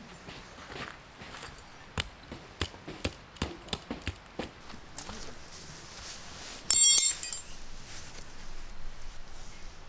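Camping gear being handled: a run of light knocks and clicks, then a sharp metallic clink with a brief ring about seven seconds in.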